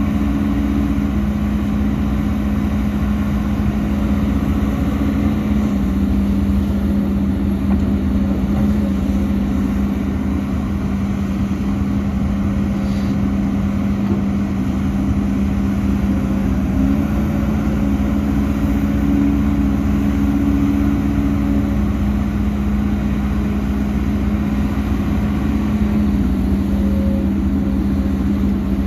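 Diesel engine of heavy earthmoving machinery running steadily with a constant hum, its pitch shifting slightly a few times.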